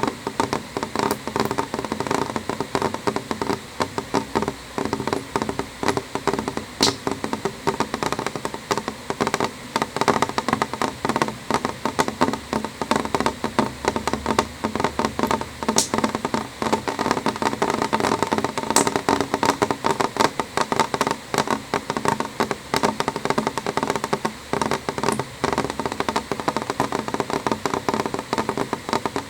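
Rain falling on window glass: many quick, irregular drop taps over a steady hiss, with an occasional sharper tick.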